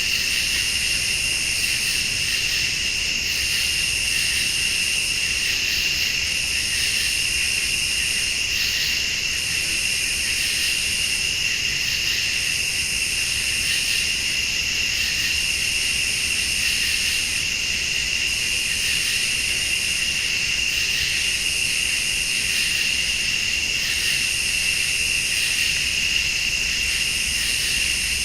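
Night insect chorus: crickets trilling steadily, with a higher-pitched chorus of late-summer insects pulsing on and off about once every two seconds.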